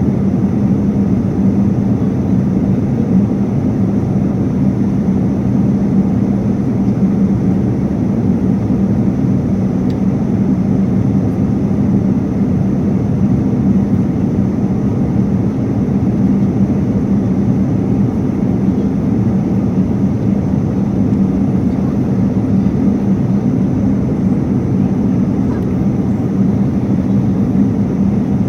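Steady cabin noise inside an airliner in flight: an even low rumble with a steady hum running through it.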